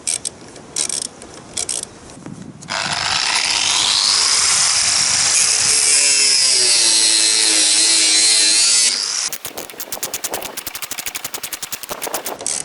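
Angle grinder (cut-off machine) cutting through a steel threaded stud: a loud continuous grinding with a high whine that sags and recovers under load, for about six seconds. Then a fast, even run of sharp clicks for about three seconds.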